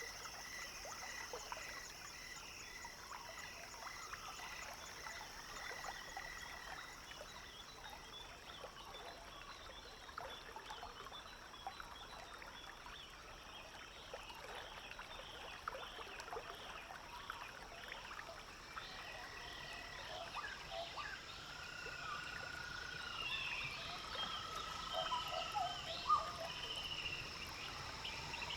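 Evening wetland chorus of frogs and insects, with a steady high-pitched trill throughout and repeated chirps in the first few seconds. Light trickling of water runs underneath. In the second half, several sliding whistled bird notes come in.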